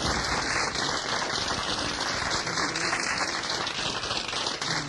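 Studio audience applauding steadily after a song, a dense wash of clapping with some cheering.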